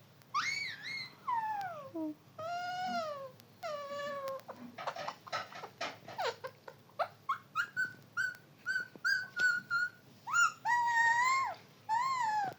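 Pet parrot calling: a series of drawn-out calls that bend up and down in pitch, then a quick run of short, even chirps about halfway through, and a few more longer calls near the end.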